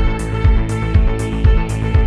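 Background music with a steady beat: a low kick drum about twice a second and a high hiss on the off-beats, under sustained pitched notes, perhaps guitar.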